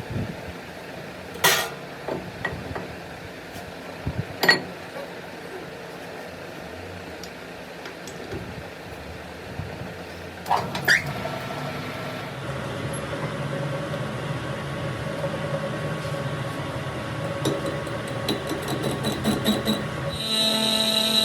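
A few sharp metallic clanks and knocks of metal parts or tools being handled, spread over the first half, then a steadier mechanical hum with faint fast ticking; music comes in near the end.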